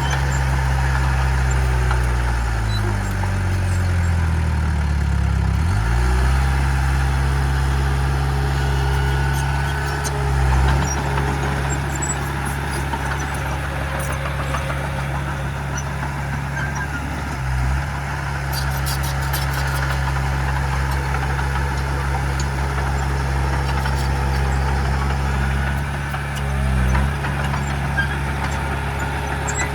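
Heavy diesel earthmoving machinery running steadily. The engine's pitch slides down and back up in the first few seconds and shifts briefly about ten, eighteen and twenty-seven seconds in. Faint clicking is heard around eighteen to twenty seconds.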